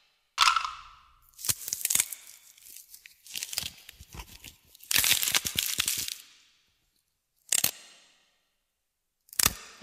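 Sound-design score of sharp crackling, tearing noise hits, about seven of them with dead silence between, the longest a second-long crunch about five seconds in.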